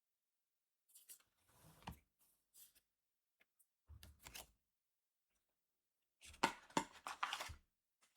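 Trading-card booster pack and cards being handled: crinkly, papery rustling and tearing in three short bursts, about a second in, at about four seconds, and the loudest from about six to seven and a half seconds.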